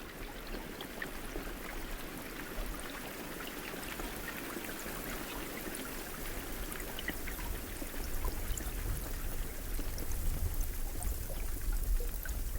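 Steady rain falling, with scattered individual drop hits. A low rumble comes in about eight seconds in.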